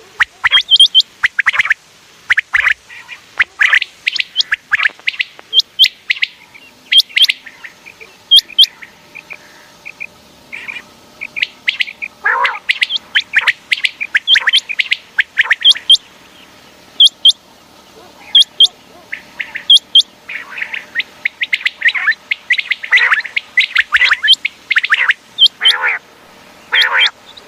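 Quails calling: a dense, nearly continuous run of short sharp chirps and quick downward-sliding calls, overlapping as if several birds call at once.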